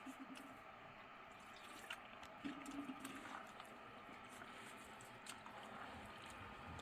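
Near silence: faint room tone with scattered small clicks and knocks.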